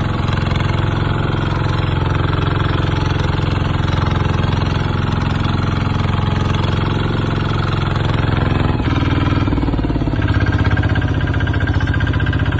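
Kubota RT140 walking tractor's single-cylinder diesel engine running steadily. About nine seconds in its note changes and settles into an even chugging beat.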